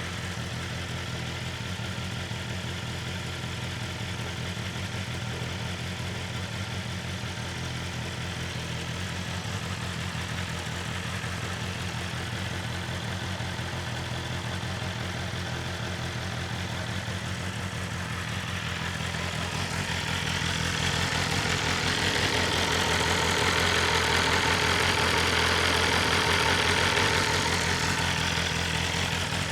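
BMW S1000RR's inline-four engine idling steadily through its stock Akrapovic exhaust. About two-thirds of the way in it grows louder and harsher for several seconds, then settles back.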